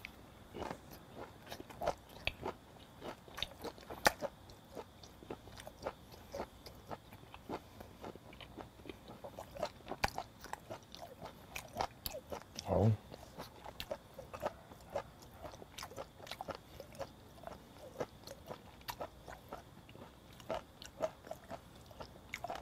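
Close-up chewing of a mouthful of raw flounder sashimi with wasabi and green chili: irregular wet mouth smacks and soft crunches, with one short hum about halfway through.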